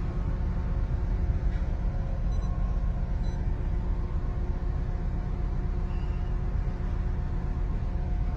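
Honda Accord engine running at a steady idle, with a cylinder 2 misfire flagged by a blinking check-engine light and confirmed by the scan tool.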